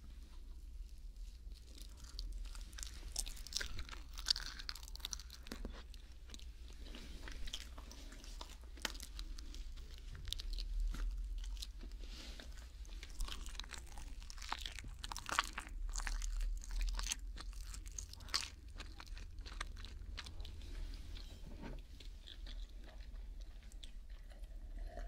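Close-up chewing and biting of a mac and cheese sandwich into a binaural microphone: a continuous run of short, crunchy, wet mouth clicks.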